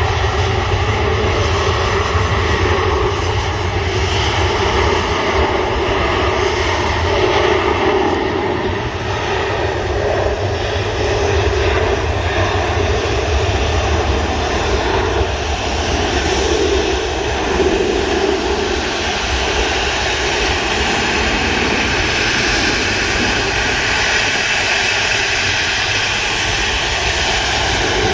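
Jet engines of a landing Ryanair Boeing 737 running, a loud, steady rumble.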